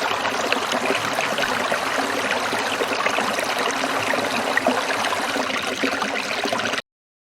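Water trickling and splashing in a small stream, a steady bubbling rush that cuts off suddenly near the end into dead silence.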